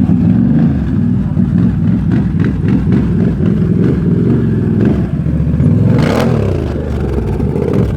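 ATV engine running under throttle, its pitch shifting as it is worked, with a quick rev up and back down about six seconds in. The engine sound drops away sharply at the very end.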